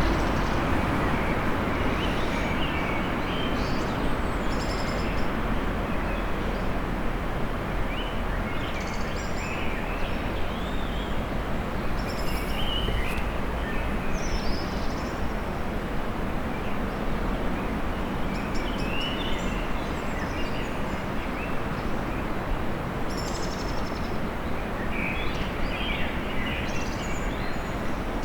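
Steady urban traffic rumble, a little louder in the first second, with small songbirds chirping and twittering on and off throughout.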